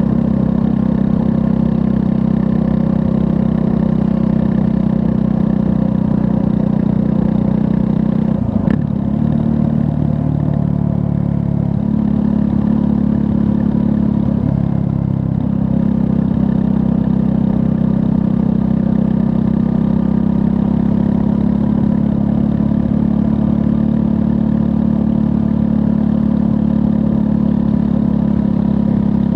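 Triumph Scrambler 400 X's 398 cc liquid-cooled single-cylinder engine running steadily on the move. Its note dips about a third of the way in, after a short sharp click, and again around halfway, each time coming back up to the same steady pitch.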